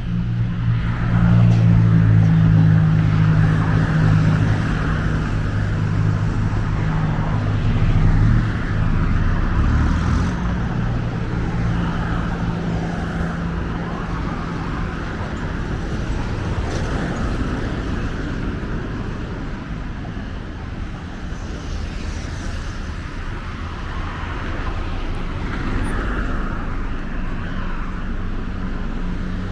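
Road traffic: a vehicle engine drones low and steady close by, fading after about ten seconds and leaving a continuous traffic rumble.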